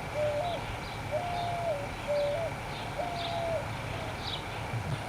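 A bird calling: a series of short, low, pure whistled notes, each a fraction of a second long and some stepping slightly in pitch, with faint high chirps alongside.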